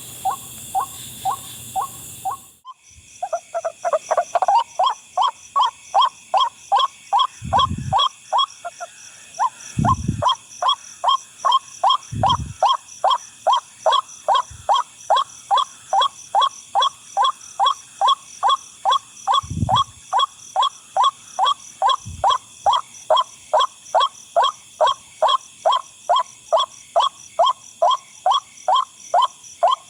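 White-breasted waterhen calling 'kwak kwak' over and over, about two short calls a second in an unbroken series that grows louder about three seconds in. A steady high-pitched hum runs behind, and a few dull low thumps come in the first half.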